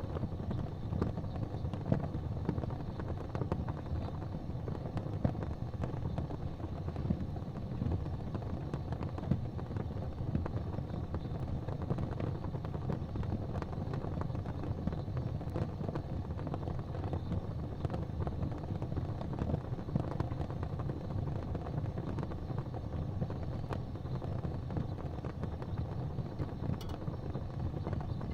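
Wood fire crackling in a fireplace, with irregular small pops over a steady low rumble.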